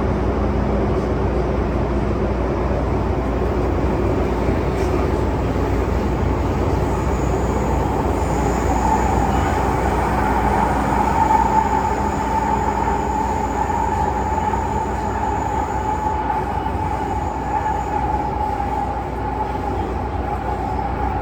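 MTR Tsuen Wan Line M-Train running between stations, heard from on board: a steady rumble of wheels and running gear. A steady high tone comes in about eight seconds in and holds to the end.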